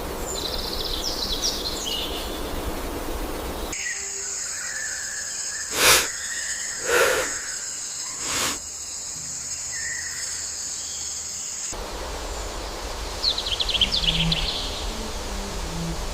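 Nature ambience: birds chirping over a steady background hiss. Through the middle, a high, steady insect buzz takes over, broken by three short, loud sharp sounds.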